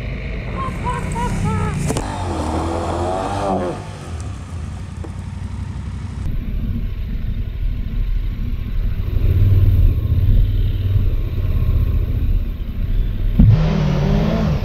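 KTM 1290 Super Adventure R's V-twin engine running through a muddy off-road track, with a steady low rumble and the revs rising and falling under the throttle; it gets louder about halfway through.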